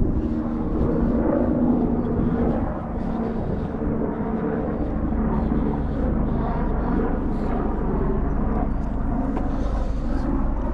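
Helicopter flying over, a steady droning hum with a low rumble beneath, with wind buffeting the microphone.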